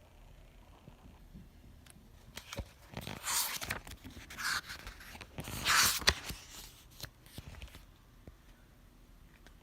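A few seconds of rustling and scraping noises mixed with sharp clicks, loudest shortly before the end.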